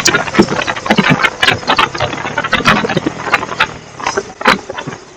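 Bajaj Pulsar N250's single-cylinder engine and exhaust, its steady note breaking into a run of irregular sharp pops and crackles that thin out and get quieter toward the end.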